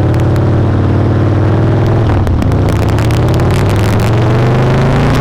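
Harley-Davidson V-twin motorcycle engine accelerating under the rider, heard from the rider's helmet mic. Its pitch climbs, drops about two seconds in at an upshift, then climbs again and drops at another shift near the end.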